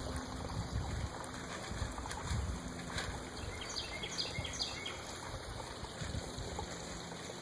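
Small garden waterfall running steadily into a shallow koi pond. A bird chirps a few short high notes about halfway through.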